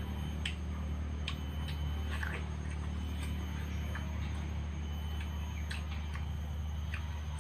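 Short, wet clicks of watermelon being bitten and chewed, scattered several times over a steady low hum.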